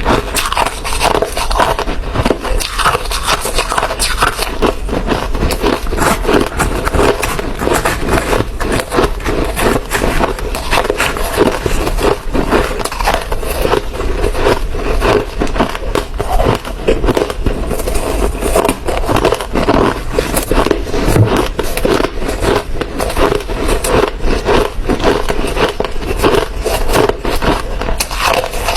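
Hard ice being chewed close to the microphone: a steady run of sharp crunches and cracks.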